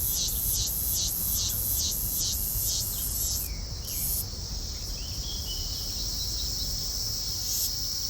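Rainforest insects calling: a high buzzing that pulses about twice a second for the first few seconds, then changes to a steady, unbroken drone.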